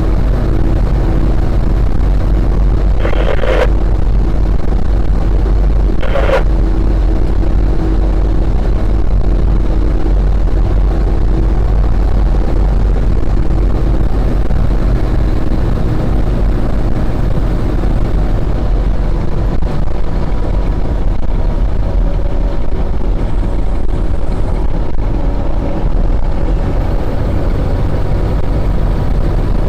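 Fire engine under way, heard from inside the cab: a loud, steady rumble of engine and road noise. Two short, sharp sounds cut in about three and six seconds in.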